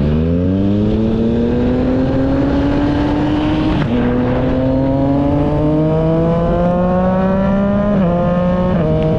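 Yamaha MT-09's three-cylinder engine accelerating hard, its pitch climbing steadily through one gear and then, after an upshift about four seconds in, through the next. Near the end, a couple of small drops in pitch as it shifts again and settles to a steady run.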